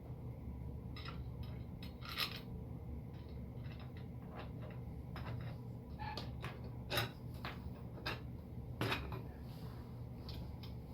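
Light metallic clinks and taps of screws, a hex key and metal frame parts being handled during assembly of a laser engraver frame, with louder clinks about two seconds, seven seconds and nine seconds in, over a steady low hum.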